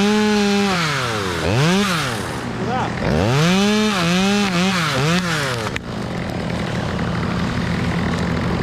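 Chainsaw revved up and down several times in quick throttle bursts, the pitch climbing and falling with each squeeze of the trigger. About six seconds in it cuts off abruptly, leaving a steady low engine hum.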